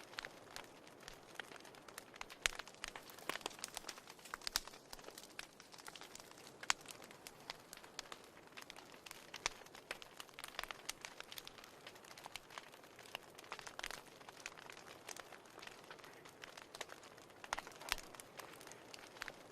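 Wood fire crackling in a fireplace: irregular sharp snaps and pops, several a second, over a soft steady hiss.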